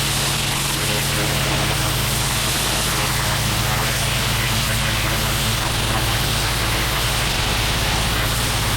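Gas-engine pressure washer running steadily, with the hiss of a high-pressure water spray blasting the paver joints.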